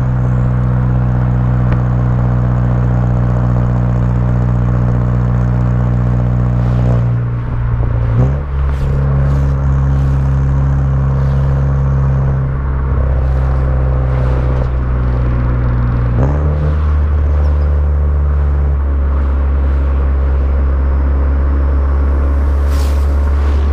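Mk6 VW Jetta GLI's turbocharged 2.0-litre four-cylinder with downpipe and cat-back exhaust, running with a steady drone. The note shifts with a brief glide about eight seconds in and again about sixteen seconds in.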